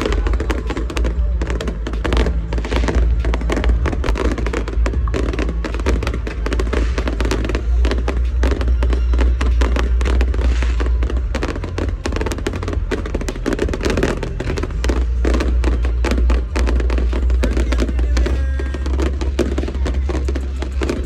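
Fireworks going off continuously: a dense run of rapid cracks and pops, many a second, over a steady low rumble, with music mixed in.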